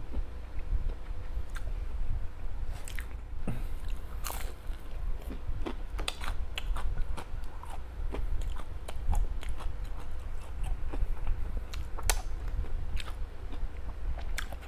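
Close-up mouth sounds of a person biting and chewing homemade fish and veggie balls: irregular wet chewing with scattered crunchy clicks, over a steady low hum.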